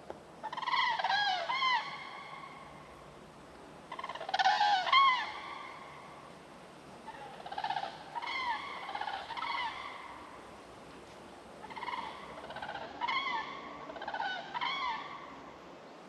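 Repeated high, arching calls from an animal, coming in four bouts of several calls each, over a faint steady hiss.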